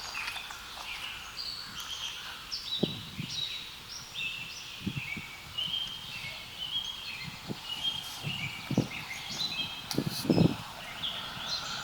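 Small birds chirping and trilling busily, several calls overlapping. A few soft low footsteps fall every second or two beneath them.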